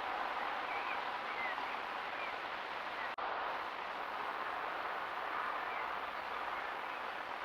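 Steady outdoor background hiss with a few faint, short bird chirps from small songbirds. The sound cuts out briefly about three seconds in.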